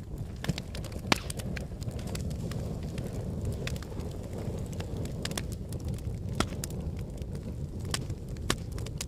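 Wood logs burning in a fireplace: a steady low rush of flames with frequent sharp crackles and pops, the loudest pop about a second in.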